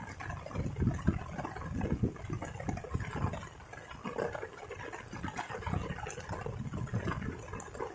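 Water splashing and gurgling, with many small irregular crackles and low rumbling surges.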